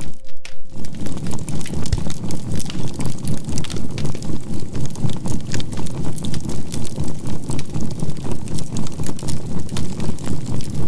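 Charcoal fire crackling over a low, evenly pulsing drone, about four pulses a second, with a steady 528 Hz healing tone beneath. This is a mixed binaural-beat relaxation track. The crackle thins briefly right at the start.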